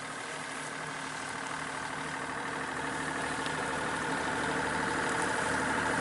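A yacht's inboard engine running steadily while motoring, its note growing slowly louder.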